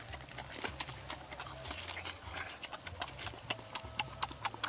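Close-up chewing and lip-smacking as meat is bitten from a roasted pig's head: many quick, irregular wet clicks over a steady high hiss.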